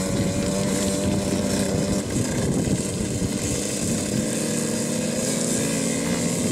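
Dirt bike engine running steadily, its pitch shifting slightly up and down.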